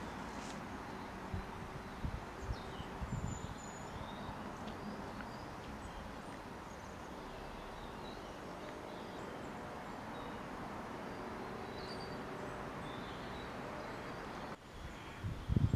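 Steady, distant jet airliner engine noise passing overhead, with small birds chirping now and then and a few low bumps on the microphone in the first few seconds.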